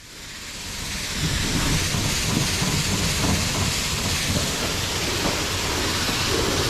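Steady rushing noise with a deep rumble underneath, fading in over about the first second and then holding level.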